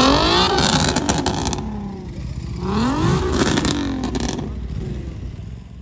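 Sports car engine revving hard as the car pulls out, in two rising pulls about two and a half seconds apart, then fading as it drives off.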